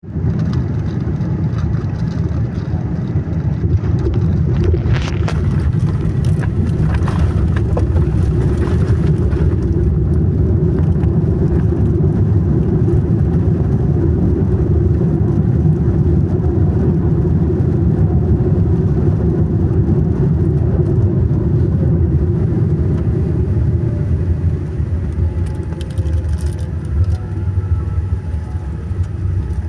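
Airliner cabin during a landing roll: a loud, steady rumble of the aircraft on the runway, with a few knocks and rattles about four to nine seconds in and a faint whine that slowly falls in pitch later on.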